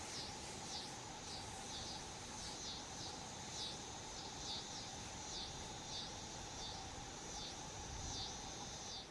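Field crickets chirping in a steady high trill, with a repeating rise-and-fall about once a second.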